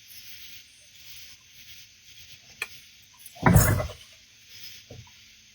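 A steady high chirring of night insects. About three and a half seconds in, a sudden loud noise lasting under a second from something unseen near the water, preceded by a sharp click.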